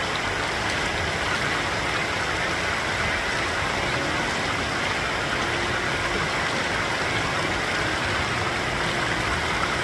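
Rushing creek water: a steady, even rush of fast-flowing water that holds the same level throughout.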